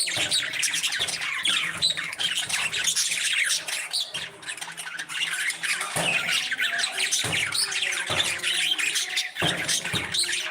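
A group of parrots calling over one another in a continuous, dense chatter of short, high calls.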